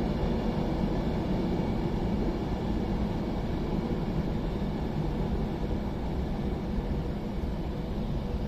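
Class 390 Pendolino electric train running into the platform: a steady noise of traction equipment and wheels on the rails with a faint hum, easing slightly as it slows to stop.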